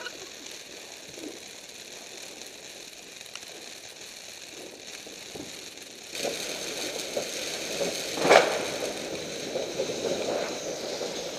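Firework fountains burning with a steady crackling hiss, getting louder about six seconds in, with a single louder pop about eight seconds in.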